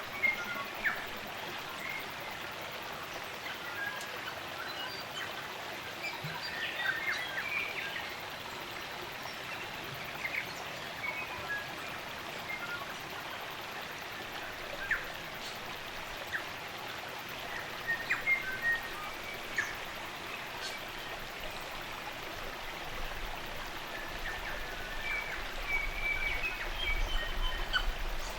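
Spring-fed stream running steadily, with New Zealand native forest birds chirping and calling over it in scattered short notes, busier at a few moments.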